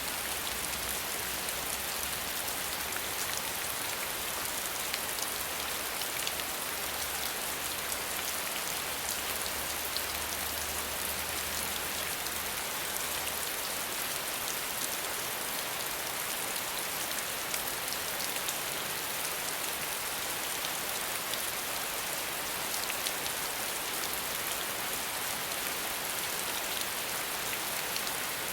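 Steady rain without thunder: an even hiss with individual drops ticking through it.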